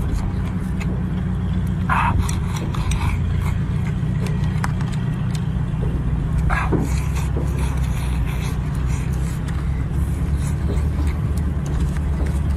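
A steady low mechanical drone like a running engine, with light clicks and clinks of utensils throughout and two short higher-pitched squeaks about two seconds and six and a half seconds in.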